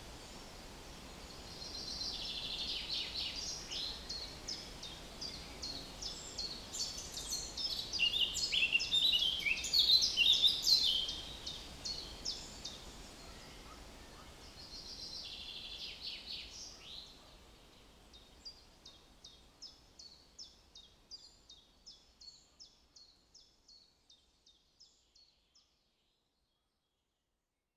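Small songbirds chirping and twittering in quick runs of notes over a faint low background rumble, busiest about a third of the way in, then thinning and fading out near the end.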